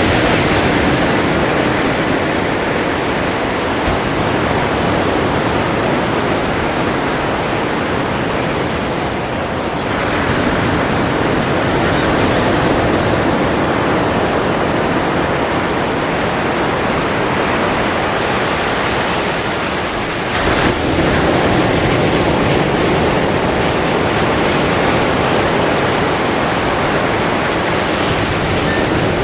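Ocean surf: a continuous rush of waves breaking and washing ashore. The wash eases off and a fresh wave surges in about ten seconds in and again about twenty seconds in.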